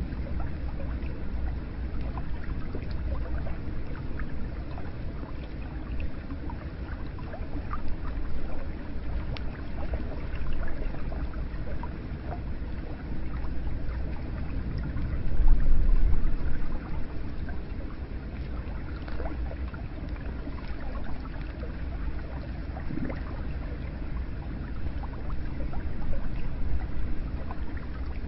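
Hot spring water pouring and splashing into a bath: a steady rush of water with small drips and splashes scattered through it, swelling louder for a moment about fifteen seconds in.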